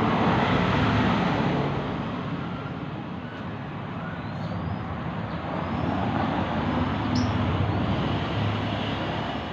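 Road traffic noise, a steady rumble that swells and fades as vehicles pass.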